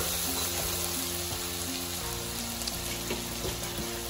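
Spice paste frying in oil in a metal kadai, a steady sizzle with little stirring, over soft background music.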